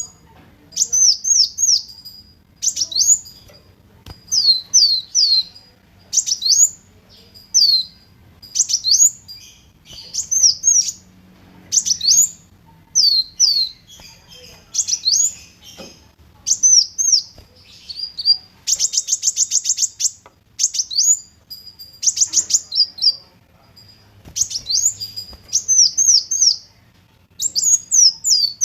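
Kolibri wulung sunbird singing: short bursts of high, quickly falling chirps about once a second. Twice, near the middle and a little after, it breaks into a fast rattling trill.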